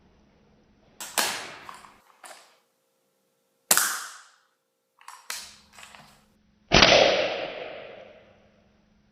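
A string of sharp cracks from an airsoft sniper rifle firing BBs, each trailing off over a second or so; the loudest comes about two-thirds of the way through.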